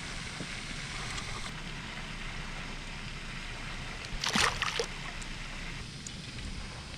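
Steady wash of water and wind noise around a fishing kayak, with one brief, louder splashing burst about four seconds in.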